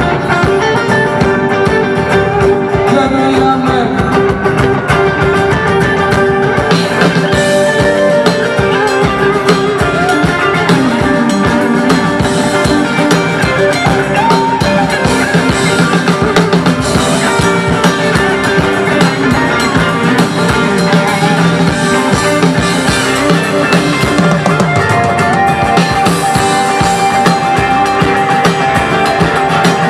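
Live rock band playing an instrumental break between verses, with drum kit and guitar and long held notes over a steady beat.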